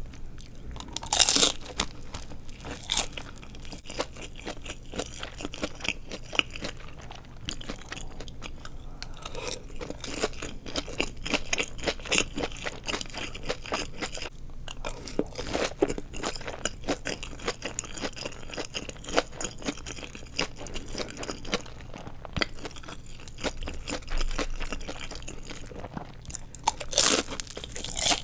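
Close-miked crunching and chewing of deep-fried nori seaweed rolls filled with glass noodles: crisp bites through the fried wrapper, with the loudest crunches about a second in and again near the end.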